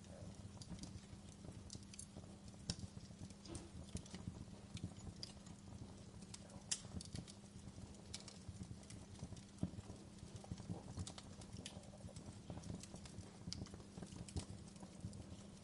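Wood fire crackling in a fireplace: a steady stream of small, irregular pops and snaps over a low, even rumble, with a few sharper snaps standing out.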